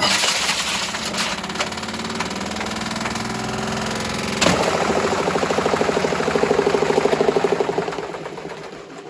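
Hoover H Wash 300 washing machine running loudly on a hard spin, rattling and vibrating. About four and a half seconds in there is a sharp knock, and the sound turns into a fast, even knocking before it dies away near the end.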